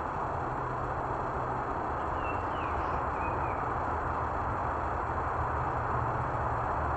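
Steady road and wind noise from a fat-tire e-bike being ridden, with a low steady hum under it. A few short high chirps come about two to three and a half seconds in.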